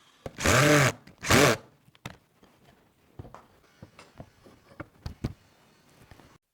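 Power drill run in two short bursts, its motor whine rising and falling each time, followed by scattered light clicks and knocks.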